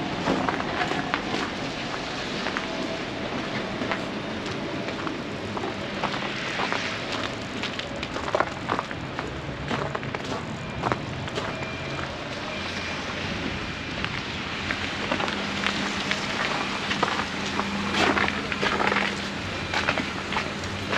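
Boots crunching through fresh snow while walking, irregular crackling steps over steady street noise, with a low steady hum joining about two-thirds of the way in.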